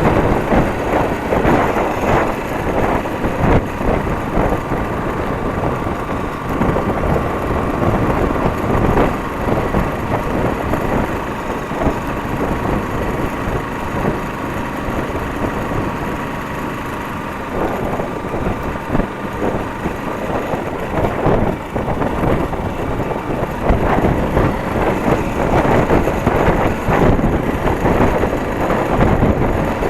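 Motorcycle running on the move, its engine hum buried under heavy wind buffeting on the microphone.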